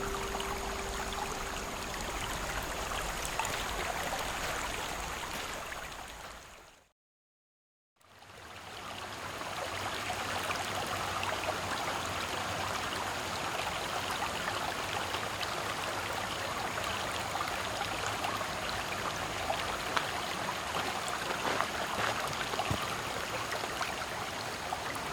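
A small creek babbling and gurgling over stones, with a faint steady high-pitched cicada drone above it. A steel tongue drum note dies away in the first couple of seconds, and about seven seconds in the sound cuts out completely for about a second before the creek fades back in.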